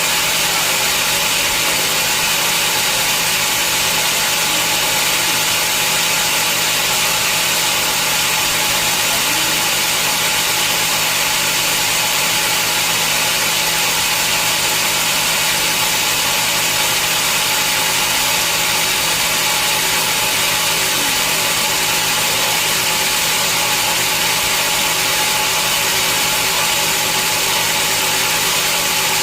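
Sawmill machinery running steadily: a constant mechanical drone with a dense hiss and a few held tones, unchanging throughout.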